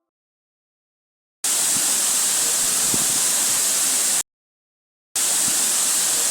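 Waterfall rushing: a loud, even hiss of falling water, heard in two stretches that start and stop abruptly, the first about a second and a half in, the second about five seconds in.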